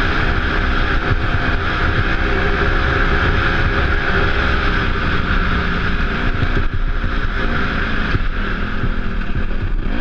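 Off-road dirt bike engine running under load at a fairly steady pitch while being ridden, with rushing noise over it.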